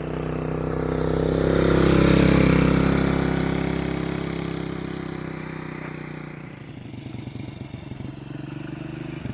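A motor vehicle's engine passes by, growing louder to a peak about two seconds in and then fading away. From about two-thirds of the way through, a closer engine runs with a rapid, even pulse.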